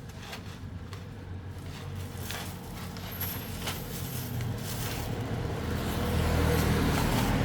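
A motor engine running steadily and growing louder toward the end, with a few scattered knocks.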